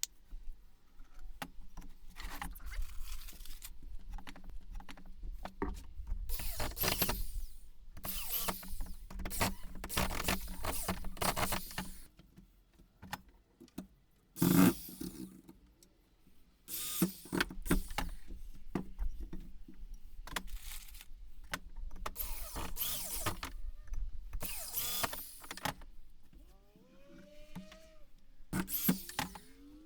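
Power drill driving wood screws into 2x4 lumber in a series of short runs, each lasting about a second, with pauses between them. There is a single loud knock about halfway through.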